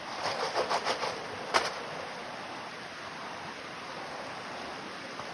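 Gold pan being swished in stream water: about five quick sloshes in the first second, then one sharp click, over a steady rush of running water.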